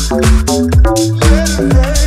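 Instrumental deep house music: a steady four-on-the-floor kick drum at about two beats a second, under short synth chord stabs and hi-hats.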